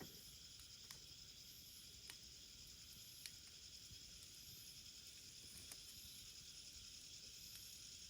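Wood fire burning faintly: a steady hiss with a few sharp, scattered crackles.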